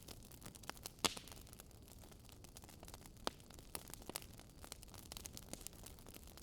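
Faint crackling of burning firewood: irregular small pops and snaps over a low hiss, with a sharper pop about a second in and another just past three seconds.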